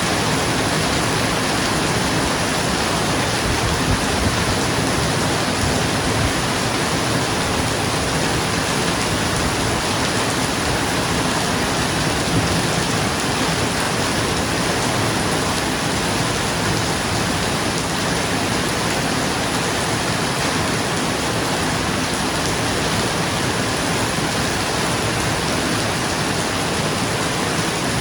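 Rain falling steadily on a roof: an even, unbroken hiss of drops.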